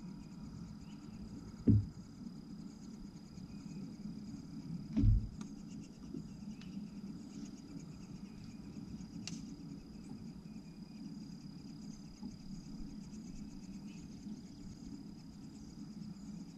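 Insects calling outdoors, a steady high-pitched tone over a low steady hum, with two short dull thumps about two and five seconds in.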